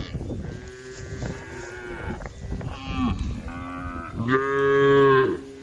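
Several cows mooing in turn, long calls at different pitches overlapping one another, with the loudest and longest moo near the end. The cows are calling to the herd.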